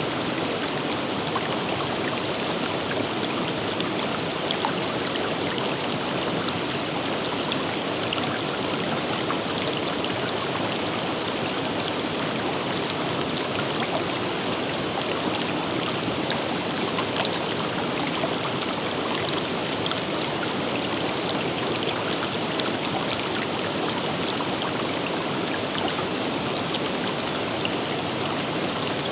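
A river or stream rushing and splashing steadily, a continuous even wash of water noise with fine droplet splashes.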